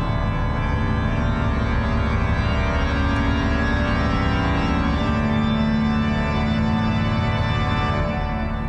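Organ music playing as sustained, held chords, with a low note growing stronger about five seconds in, heard through a two-channel mini hi-fi system's speakers.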